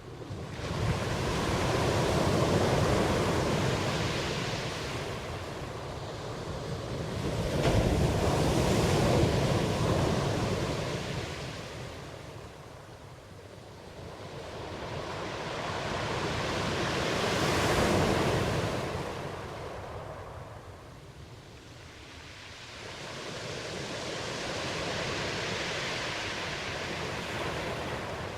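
Ocean waves washing onto a shore in slow surges, four swells of rushing surf that rise and fade about every seven to nine seconds.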